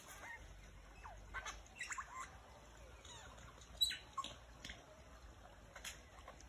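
Scattered short bird chirps and squawks, several sweeping down in pitch, with a sharper, louder note a little under four seconds in.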